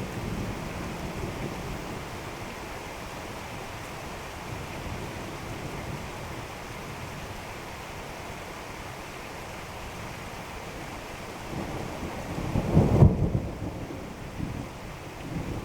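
Steady rain falling, with a low roll of thunder that swells about twelve seconds in, peaks briefly, then fades away.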